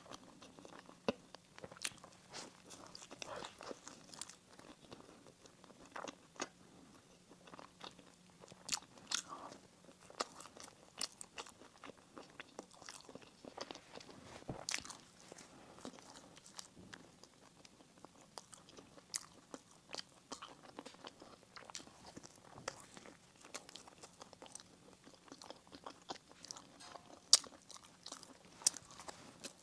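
Close-miked eating of bakery bread and pastry: irregular small crunches and soft chewing, with frequent sharp little crackles.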